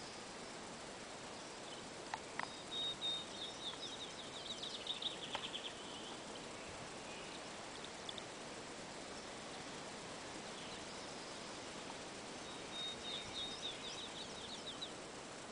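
A bird singing twice over a steady outdoor hiss: each phrase is a held high note that breaks into a fast run of short falling notes, the first a few seconds in and the second near the end.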